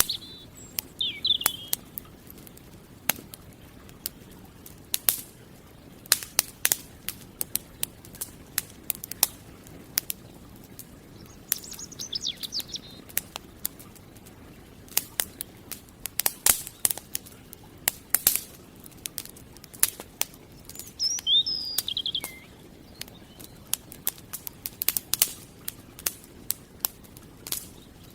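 Campfire crackling, with irregular sharp pops and snaps over a soft hiss. A bird chirps in short high phrases a few times, at the start, about twelve seconds in and about twenty-one seconds in.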